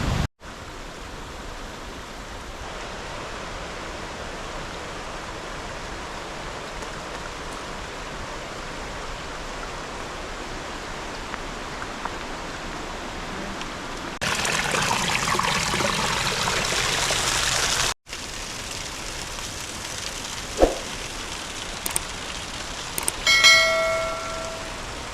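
Rushing water of a river and waterfall in spate after heavy storm rain: a steady hiss of falling and churning water, louder for a few seconds in the middle. Near the end there is a brief ringing tone.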